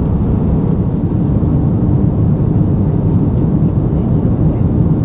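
Cabin noise inside an Airbus A320neo: a steady low rumble.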